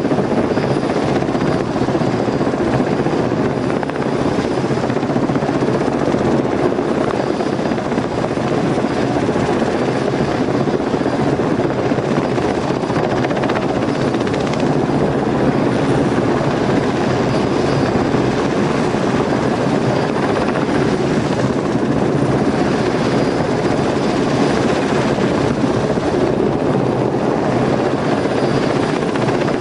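Helicopter's turbine and rotor running loud and steady, with no change in pitch or level.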